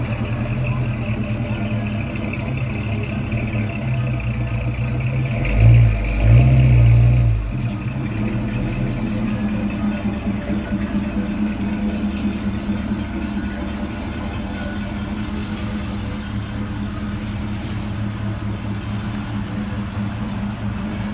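A car engine running steadily at idle, with two brief, louder low surges a little after five seconds in.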